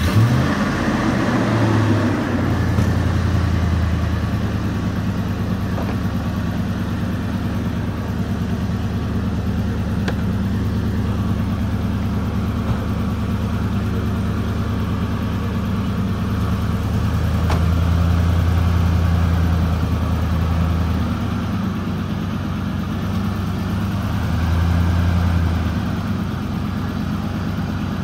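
Lifted 1999 Ford F-150 pickup's engine idling just after start-up, a steady low drone that swells briefly three times.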